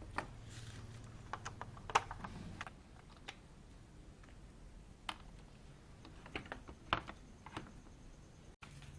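Irregular light clicks and taps of small parts and tools being handled while working on a washing machine's control panel, bunched in two short flurries. A faint low hum is present in the first few seconds.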